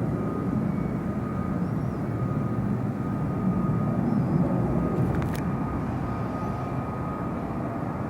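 Fighter jet engines running, a steady heavy rumble with a thin high whine, slowly easing off.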